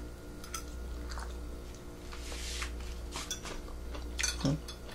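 A person chewing a mouthful of food, with a few light clinks of a metal fork against a plate, and a brief hum of voice near the end.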